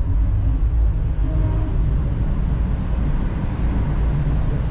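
Steady low rumble of a Chinese high-speed train running at speed, heard from inside the carriage.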